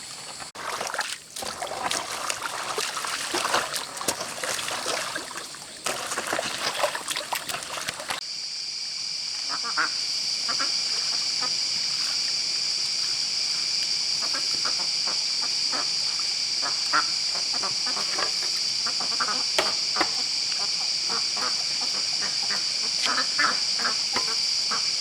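Ducks quacking in many short calls. For the first eight seconds they sit under a louder rough noise; after a sudden change they sound over a steady high-pitched drone.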